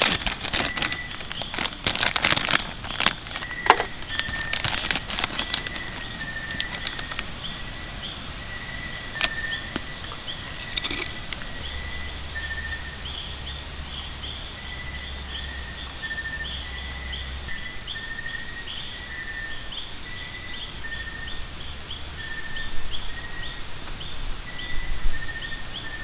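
Outdoor ambience of small animal calls: a short high call repeats about once a second over a faster, higher chirping chorus. Sharp crackles and clicks sound through the first several seconds and then thin out.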